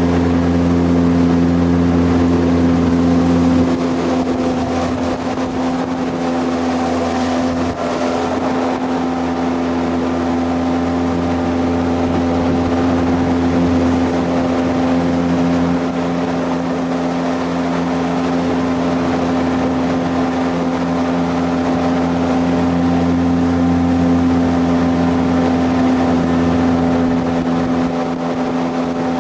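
Jet boat engine running steadily under way: a constant drone with water and wind noise, easing slightly about four seconds in.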